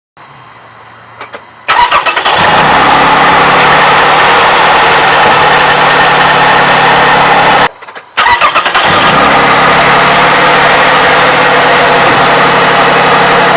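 Toyota 3.5-litre V6 starting and running loudly. It cuts out partway through, then starts again and runs on. The owner finds that the usual startup clacking from the variable valve timing is quieted by a graphene oil additive.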